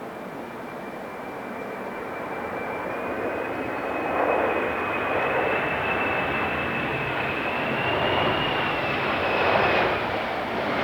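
Boeing 737-300 jet on landing approach, its CFM56 engines running with a steady rushing noise that grows louder as it nears, and a high whine that creeps slightly up in pitch before fading near the end.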